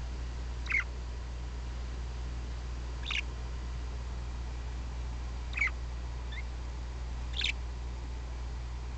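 Caged parakeets giving short, single chirps, four of them spaced about two seconds apart, over a steady low hum.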